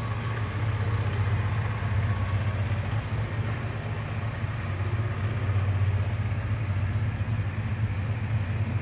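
1958 Sunbeam Rapier's four-cylinder engine idling steadily.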